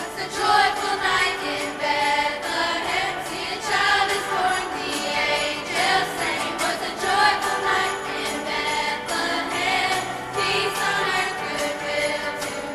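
School choir singing a Christmas song over an accompaniment with jingle bells, the voices coming in right at the start.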